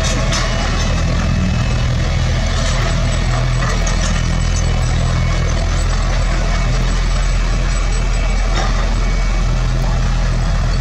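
Heavy diesel construction machine engine running steadily under load, with a few short knocks over it.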